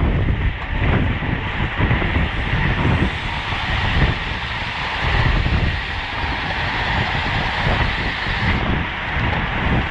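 Wind buffeting the microphone of a camera on a road bike moving at racing speed, in uneven gusts over a steady rush of road noise.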